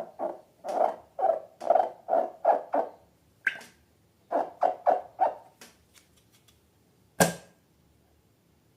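Slime being squeezed and squished by hand, a rapid series of wet squelches, about three a second, which pauses and then resumes for a few more. A single sharp snap comes near the end.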